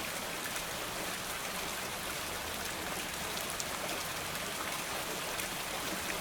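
Steady rain with many close raindrops pattering on a surface.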